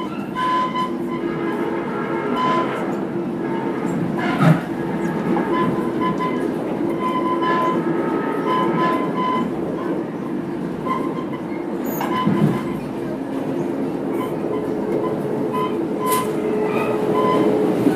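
Running noise of an Amtrak passenger train heard from inside the coach: a steady rumble of wheels on rail, with short high tones that come and go and a sharp knock about four and a half seconds in.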